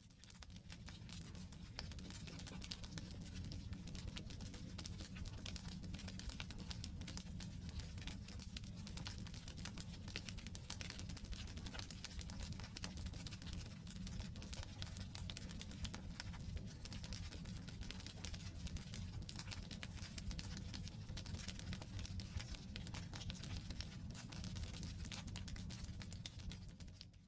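Wood campfire burning, with dense, irregular crackles and snaps from the logs over a steady low rumble. It fades in just at the start and fades out at the end.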